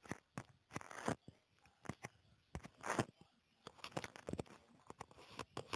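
Faint, irregular rustling and crunching: a series of short scratchy bursts at uneven intervals.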